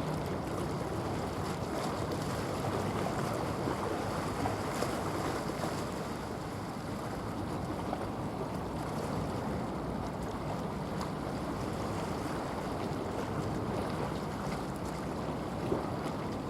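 Steady low rumble of a passing bulk carrier, mixed with wind buffeting the microphone and the wash of water along the shore.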